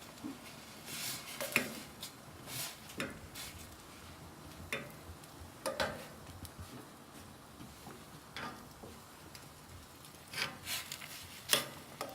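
A utensil stirring and knocking in a cooking pot, in irregular short scrapes and clicks.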